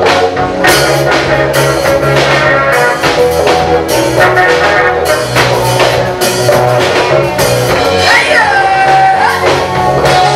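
Gospel band music: a drum kit keeps a steady beat under a bass line and held instrument tones, with singing, and a voice or instrument sliding up and back down near the end.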